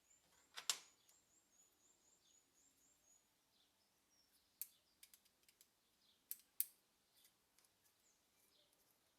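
Mostly quiet, with a handful of sharp clicks and taps. The loudest comes about a second in and a close pair follows later. A faint high twittering of quick repeated chirps, like a small bird, runs through the first three seconds.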